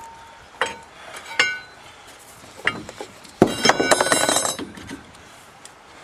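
Metal clanking while working on a truck's front axle: a few sharp ringing strikes, then a louder metallic clatter with ringing about three and a half seconds in.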